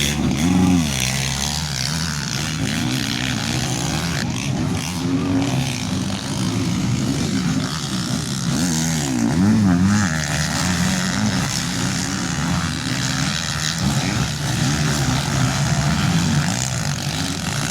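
Several motocross motorcycle engines racing around a dirt track, their pitch repeatedly rising and falling as the riders rev, shift and back off.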